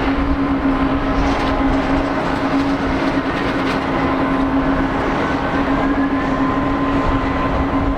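Jet engines of a Boeing 767-300ER airliner running at high power for takeoff: a loud, steady rush with a constant low hum through it.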